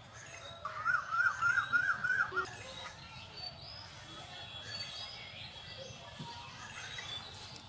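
A bird calling a quick run of about seven repeated notes, each rising and falling, roughly four a second, with faint high chirps of other birds afterwards.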